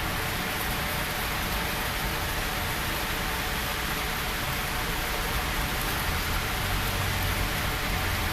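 Heavy rain falling on the street and hard surfaces, a steady hiss.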